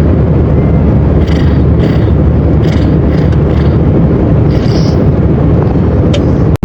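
Loud, steady low rumble of an airliner's engines and rushing air heard inside the passenger cabin.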